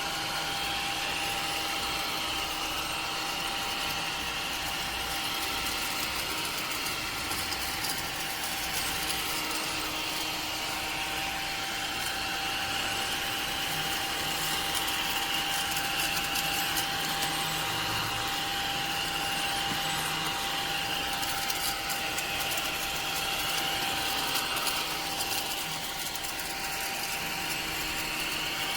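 Small battery-powered desktop vacuum cleaner running steadily, a constant motor whine with a slightly wavering higher hum over an airy rush.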